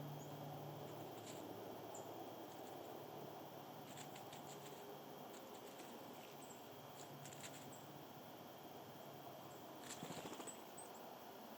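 Faint sounds of small animals: soft clicks and scratches in three short clusters, with a few brief, high, thin chirps, over a quiet hiss.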